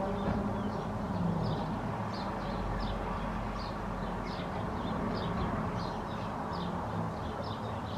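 Jet engines of a Boeing 737 on approach giving a steady rumble, with a bird chirping over and over, a few short high chirps a second.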